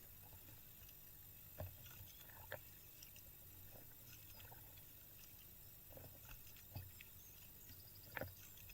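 Faint kayak paddling: quiet water splashes and drips with short sharp knocks every second or two, the loudest near the end, picked up by a camera mounted in the kayak's deck.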